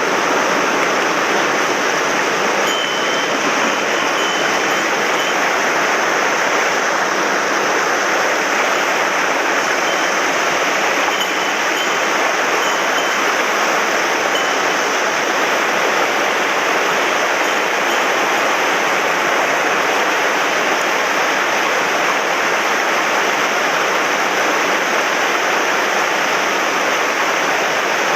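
Steady loud rush of a mountain stream running high and fast after heavy rain.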